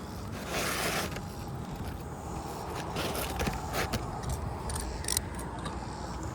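Scattered light rustles and clicks of asphalt shingle pieces being handled, over a steady outdoor background noise.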